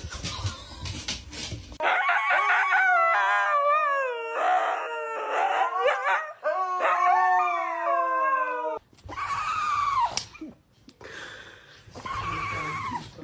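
A dog howling in long wavering calls that slide down in pitch, lasting about seven seconds, followed after a short break by shorter, higher-pitched cries.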